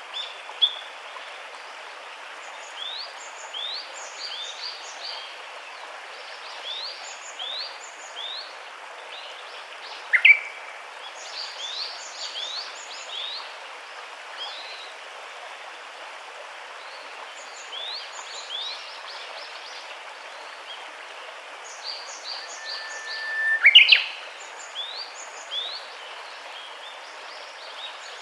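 Many birds chirping in short rising notes over a steady hiss of background noise. Louder single calls stand out about ten seconds in and again near the end.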